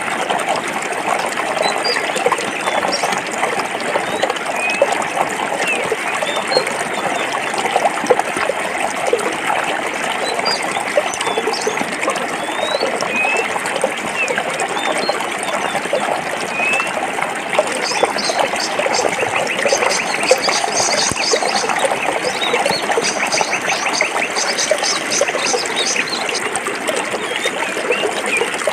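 A forest stream flowing and burbling steadily over rocks. Short high bird chirps come and go, and a rapid high trill runs for several seconds in the second half.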